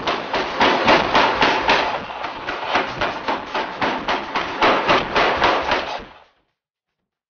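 Pneumatic forging hammer pounding a kitchen knife blank in rapid, even blows, about four a second, which stop abruptly about six seconds in.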